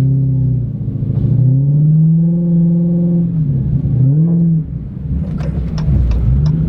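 Dodge Challenger Hellcat Redeye's supercharged V8 revving up and down in several surges, the pitch rising and dropping again and again as the driver tries to power the car out of deep snow where it is stuck.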